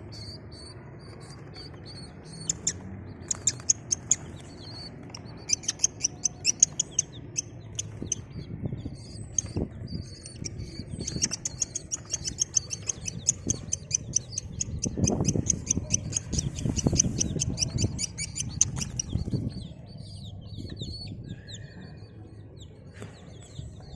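Baby chicks peeping: dense runs of short, high cheeps, many birds at once, with low scuffling and rustling in the middle of the stretch.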